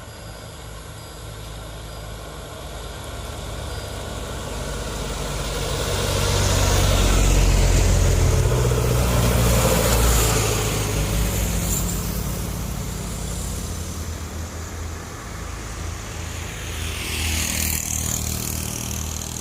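Heavy diesel truck engine pulling up a steep grade, growing louder as it passes close by, loudest about halfway through, then fading. Another vehicle comes by near the end.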